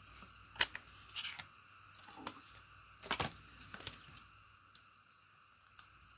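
Trading cards and pack wrappers being handled: a scattering of light clicks and snaps, the sharpest about half a second in and about three seconds in.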